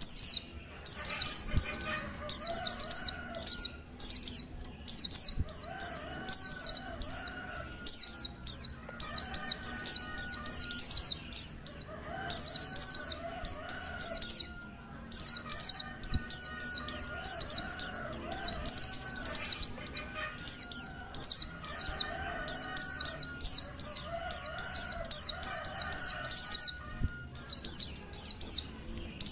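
Female white-eye (pleci) calling: quick runs of short, high, downward-sliding notes in bursts of a second or two, repeating with brief gaps. A fainter, lower warbling call sounds beneath.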